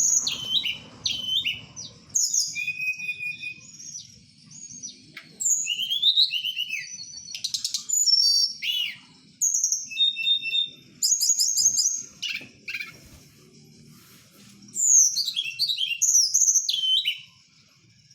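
Tledekan (hill blue flycatcher) singing: a varied string of high whistled phrases, quick downslurs and fast trills with short pauses between them, stopping about a second before the end.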